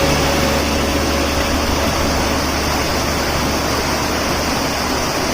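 A steady rushing noise with a low hum under it that fades about halfway through.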